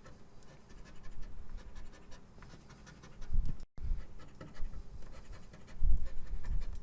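A coin scratching the latex off a scratch-off lottery ticket in quick, uneven strokes, with low thumps of handling. The audio cuts out completely for a moment just past halfway.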